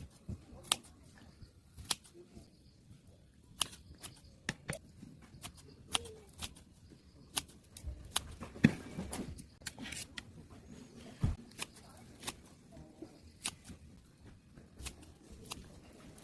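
Scattered sharp clicks and taps at an uneven pace, about one or two a second, over a faint quiet background.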